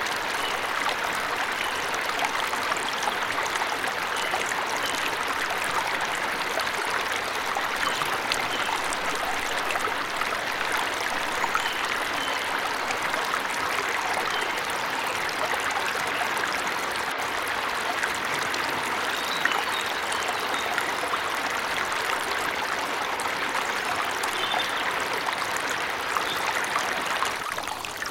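Forest waterfall: water rushing and splashing in a steady, even wash, with a few faint short bird chirps now and then above it. The loudness dips slightly near the end.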